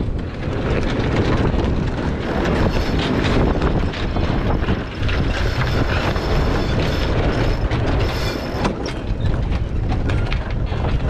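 Sailboat tacking in strong wind: fast clicking of a sheet winch and the creaking, squealing of wet sheets running, over heavy wind on the microphone. A thin high squeal holds from about two seconds in and stops near nine seconds.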